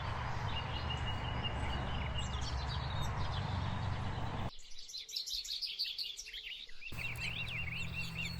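Small birds chirping and calling over a steady low background hum. The hum drops out for a couple of seconds about halfway through.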